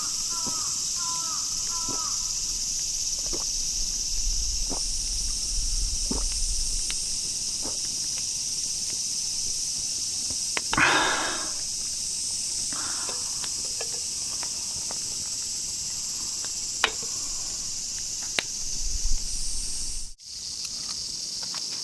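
Steady high-pitched drone of summer insects, likely cicadas, over an outdoor scene. A bird calls several times in quick succession at the start, with scattered light clicks and a short rushing noise about halfway through.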